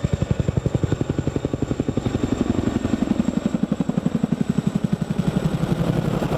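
Boeing CH-47 Chinook tandem-rotor helicopter, its rotor blades thudding in a fast, even beat of about eleven pulses a second, over a steady high whine.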